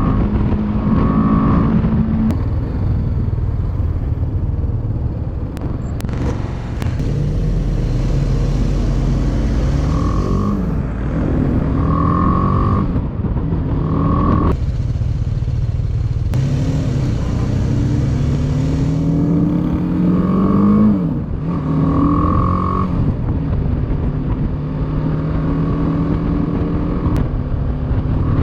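Motorcycle engine running on the road, its pitch climbing as it accelerates and dropping back several times as it changes gear or eases off, over a steady low rumble.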